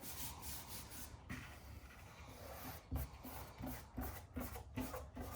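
Faint rubbing and handling sounds as a vinyl decal is pressed onto the race car's body, with a few soft knocks.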